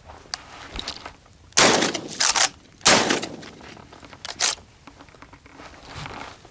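Two shotgun blasts about a second and a half apart, each with a short ringing tail, followed by a few fainter sharp sounds.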